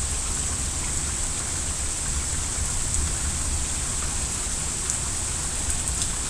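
Heavy rain falling steadily, an even hiss of downpour with a low rumble beneath it.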